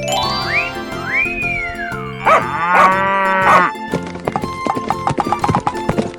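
A cartoon cow mooing once, a bent pitched call lasting about a second near the middle, over background music. Sliding whistle-like sound effects come before it, and a run of light ticks follows.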